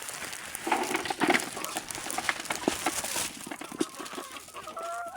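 Chickens clucking softly, with many short sharp pecking clicks as they feed on food scraps, and a brief higher call near the end.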